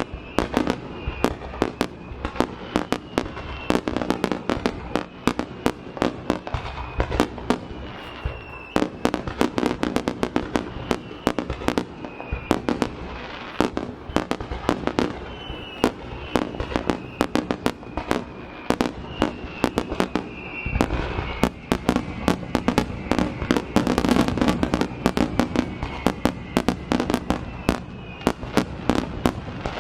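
Starmine fireworks barrage: rapid, overlapping aerial shell bursts and crackles, several per second without a break, growing heavier and louder a little past the middle.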